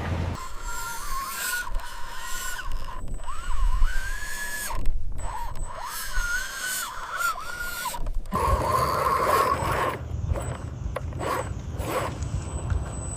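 Small electric motor of a radio-controlled construction model whining, its pitch rising, holding and falling in repeated sweeps, then giving way to rougher scraping and knocking about eight seconds in.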